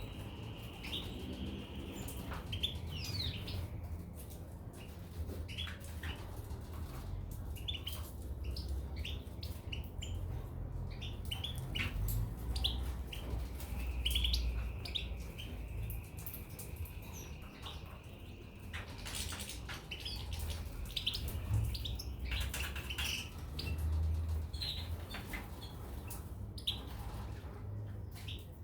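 Small cage birds, goldfinches and canaries, chirping: many short scattered calls, with a steady high note drawn out for a few seconds at a time, over a low rumble.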